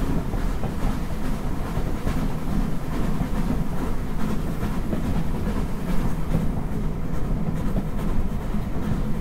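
Train hauled by steam locomotive 43924 running along the line: a steady rumble of wheels on rails.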